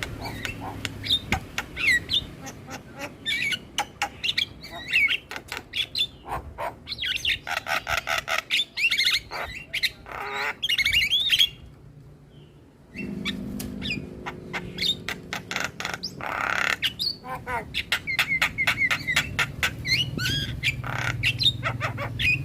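Javan myna (jalak kebo) calling: rapid sharp clicks and chatter mixed with rising and falling whistles. There is a short pause a little past halfway, and a steady low hum sits underneath after it.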